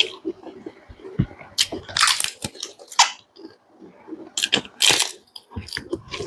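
A person chewing and biting food close to the microphone: irregular short mouth sounds, some sharper, coming in quick uneven bursts.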